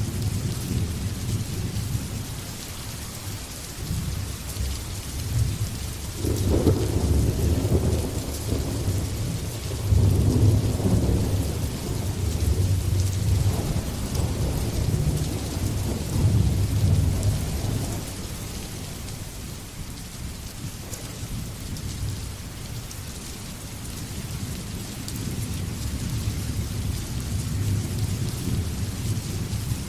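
Steady rain hiss with a long, low roll of thunder that builds about six seconds in, is loudest around ten seconds and dies away by about eighteen seconds; a fainter rumble returns near the end.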